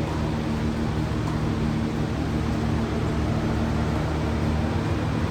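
A machine running steadily: an even low hum with several steady tones under a constant hiss, unchanging throughout.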